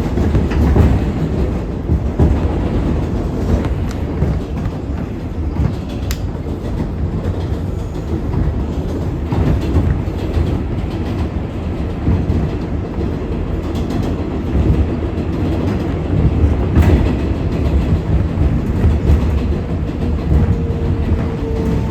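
R188 subway train running along the track: a steady low rumble of wheels on rail, with an occasional sharp click as the wheels pass over joints.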